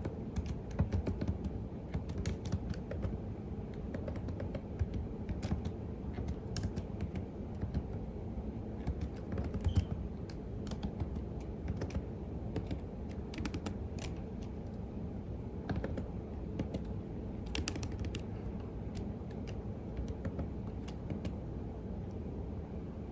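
Typing on a computer keyboard: irregular key clicks, at times in quick runs, over a steady low background rumble. The typing thins out near the end.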